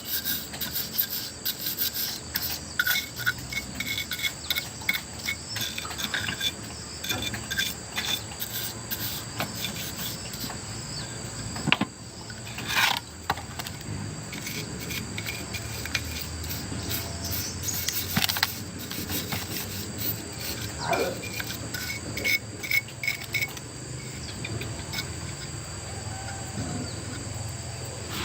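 Irregular rubbing and scraping strokes, like hand work on a hard surface, with a few louder scrapes partway through. Behind them, insects such as crickets chirp steadily on a high note.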